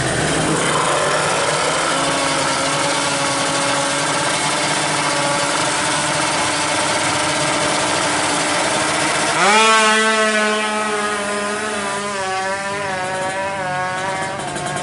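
Drag-race motorcycle engine running, mixed with a push scooter's engine, fairly steady at first; about nine and a half seconds in it revs up sharply, and the pitch then wavers up and down as the throttle is worked.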